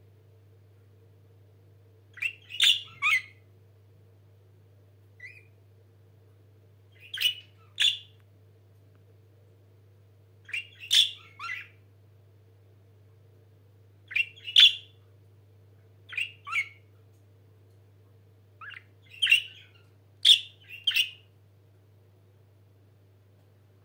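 Pet budgerigars giving short, sharp chirps in quick groups of two or three, every two to three seconds, over a faint steady hum.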